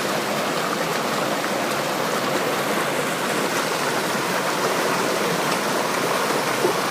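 Rushing water of the river below the Pistyll Rhaeadr waterfall, a steady, loud, even rush heard up close at the water's edge.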